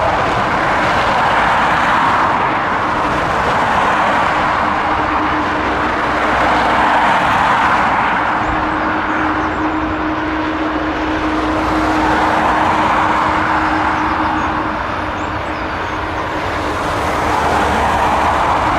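Boeing 757's jet engines running, a loud steady rushing noise that swells and eases every few seconds, with a steady hum through the middle stretch.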